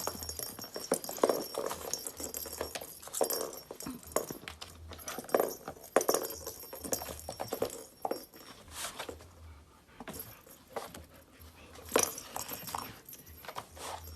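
A dog pawing and nosing at a cardboard ball-track cat toy: irregular knocks and rattles of the balls and cardboard.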